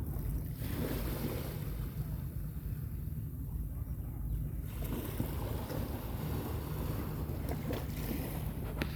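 Gentle sea waves washing onto a beach, two washes of surf, one starting about half a second in and a longer one from about five seconds in, over a steady low rumble of wind buffeting the microphone.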